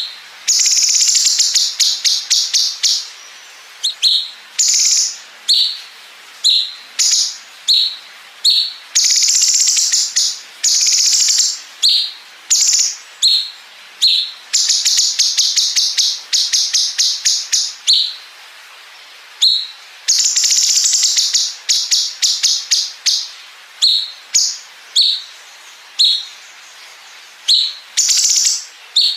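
A cucak cungkok singing continuously. Short, sharp chirps repeat in quick runs, broken by long buzzy 'bren' phrases of one to two seconds each, a cicada-like rasp.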